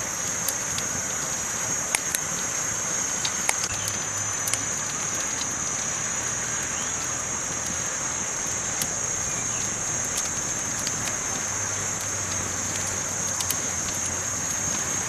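Campfire burning: a steady hiss with sharp crackling pops every few seconds, over a constant high-pitched hiss.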